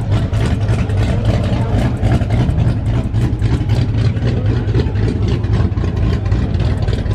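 Toyota Supra's engine idling loudly, its exhaust a steady, rapid pulsing note.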